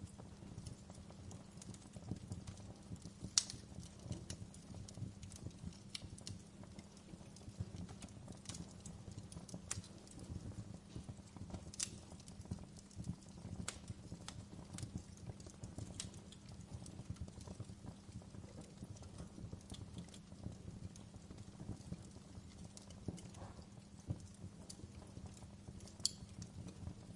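Wood fire crackling in a fireplace: irregular sharp pops and snaps over a steady low rumble of the burning logs, with the loudest pop about three and a half seconds in.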